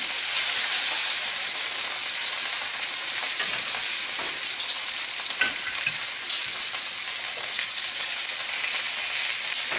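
Browned rabbit pieces sizzling in hot oil in a frying pan, a steady hiss, with a few light clicks as the pieces are moved.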